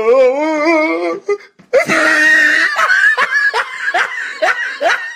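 A person laughing. It starts with a wavering, trembling laugh, breaks off briefly, then comes a loud shrill outburst followed by quick repeated laughs, about three a second.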